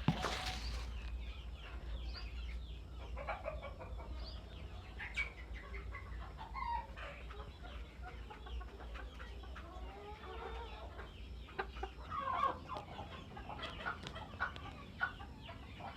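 A flock of fancy bantam chickens clucking and chirping, with many short calls overlapping. A short noisy burst comes right at the start.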